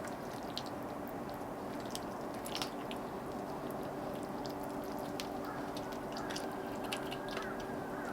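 Eating sounds: chewing with scattered light clicks and taps of tableware, over a steady low hum.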